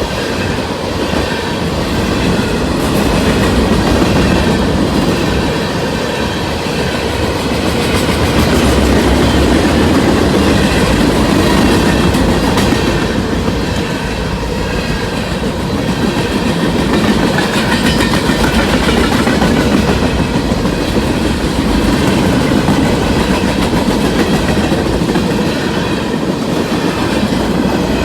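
CSX mixed-freight train rolling past, its cars' wheels clicking over the rail joints in a steady rumble.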